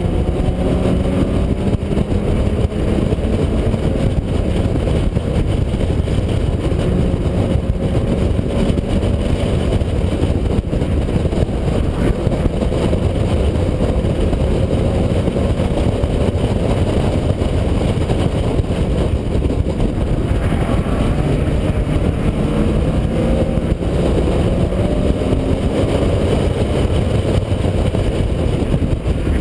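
In-car sound of a BMW M3 driven hard on a race track: the engine note rising and falling with the throttle and gear changes, under a heavy steady rumble of wind and road noise.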